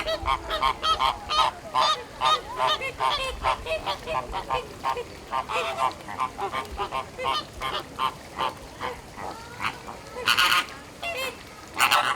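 Flamingos calling with short, goose-like honks, about three or four a second, several birds overlapping. Two louder honks come about ten seconds in and near the end.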